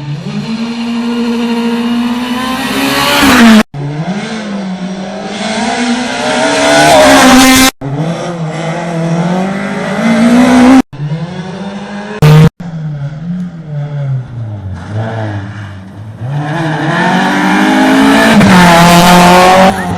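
Rally cars at full attack, engines revving hard, climbing in pitch as they accelerate and dropping on the lift or gear change. Several separate passes follow one another with abrupt cuts every few seconds.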